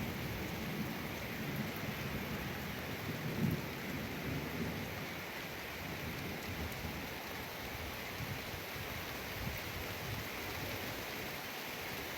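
Thunderstorm: steady rain hissing, with low rolling thunder rumbling through the first few seconds and then dying away.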